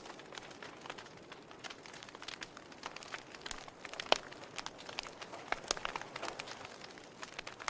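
Wood fire crackling in a fireplace: irregular snaps and pops over a soft hiss, with one sharper pop about four seconds in.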